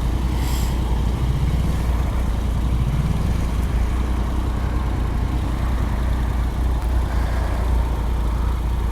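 Motorcycle engine running on the move, a steady low rumble whose pitch rises twice in the first few seconds as the bike accelerates.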